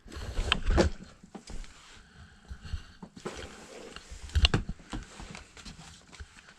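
Handling noise: a few sharp knocks and clicks with rustling, the sound of a parts bag being set down and the RC truck being handled, with the loudest knock about four and a half seconds in.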